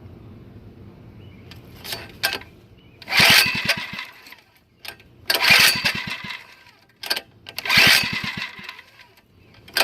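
Small mini bike engine cranked over four times, each about a second of rapid chugging with a whir and no firing, the spark plug wire disconnected.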